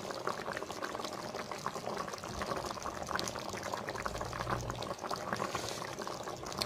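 Chicken and vegetables in tomato sauce simmering in a pot, with a steady patter of small bubbles popping. A brief low rumble comes about four seconds in.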